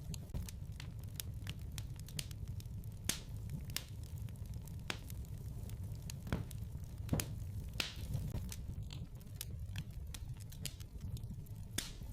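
Wood fire burning in a fireplace: a steady low rumble of flames with irregular sharp pops and snaps from the burning logs.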